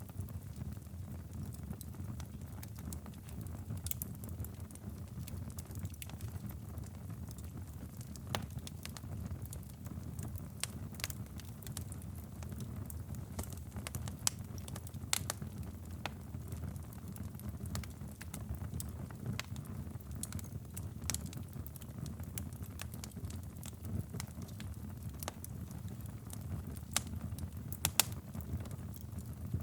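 Wood fire burning in a fireplace: a steady low rumble with irregular sharp crackles and pops, one louder pop near the end.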